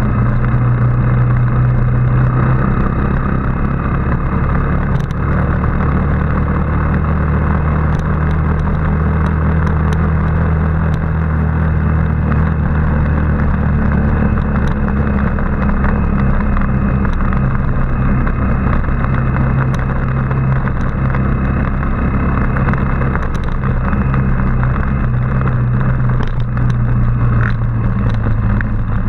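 Motorbike engine running steadily while riding at an even speed, with road and air noise.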